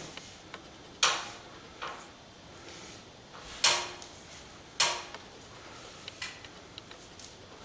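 A plastering tool knocking and scraping while cornice cement is worked: a handful of short, sharp strokes spaced about a second apart, the loudest about three and a half seconds in.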